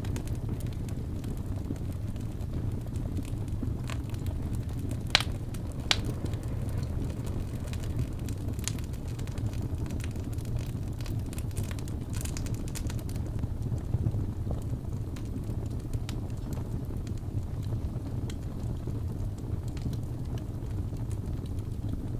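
Fireplace ambience: a steady low rumble of burning wood with scattered crackles and pops, two sharper pops about five and six seconds in.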